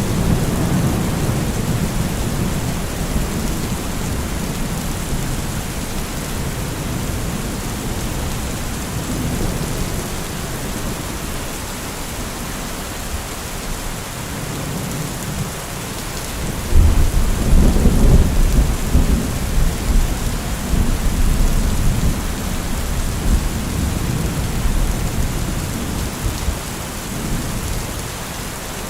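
Heavy rain falling steadily, an even hiss, under a deep low rumble that swells at the start and again more strongly from a little past halfway.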